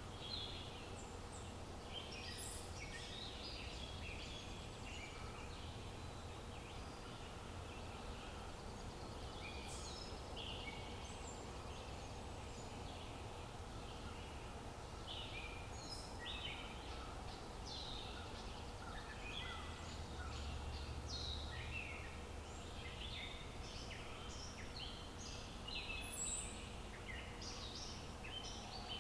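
Many small songbirds chirping and singing in an overlapping chorus of short, high calls, over a steady low outdoor background noise.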